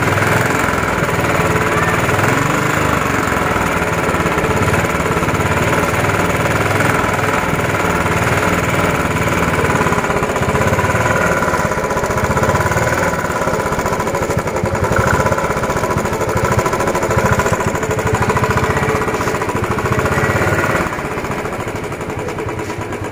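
Royal Enfield Bullet 350's single-cylinder engine revved hard and held high, its exhaust pulses running together into a rapid pounding; the revs drop back near the end.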